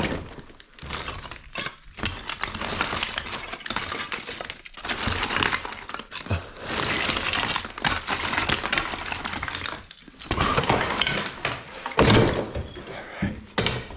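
Broken lath-and-plaster debris being gathered up and tossed by hand: a near-continuous clatter and crunch of plaster chunks and wood strips, with sharp clinks and brief pauses.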